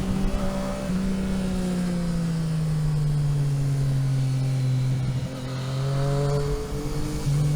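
Vehicle engine heard onboard while driving. The engine note falls steadily over several seconds as the revs drop, then steps back up near the end.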